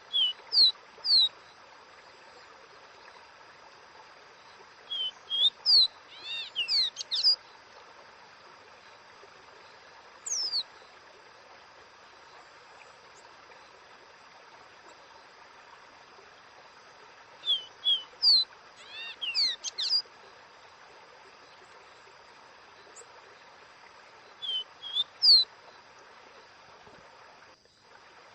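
Caboclinho (seedeater) singing its 'dó-ré-mi' song: short groups of clear whistled notes, some sliding up or down, repeated every few seconds with pauses of several seconds between phrases, over a steady faint hiss.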